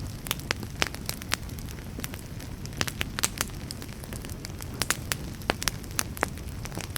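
Wood fire burning, with irregular sharp crackles and pops over a steady low rumble of the flames; the pops come in quick clusters about three seconds in and again around five seconds in.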